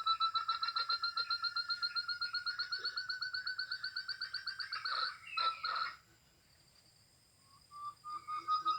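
Recorded call of a forest partridge (puyuh gonggong) played from an mp3 lure: a fast run of repeated notes, about eight a second and slightly rising. It ends in a few louder notes about five seconds in, and after a short pause the call starts again near the end.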